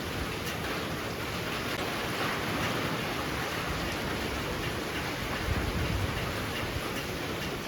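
Heavy rain falling steadily, a dense even hiss, with a brief low swell about five and a half seconds in.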